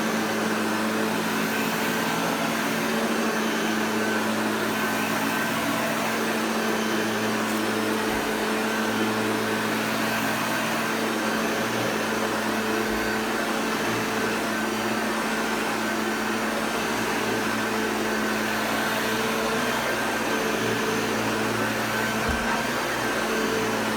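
Hoover Junior Exclusive U1104 upright vacuum cleaner running steadily with an even motor hum and hiss while it picks up powder.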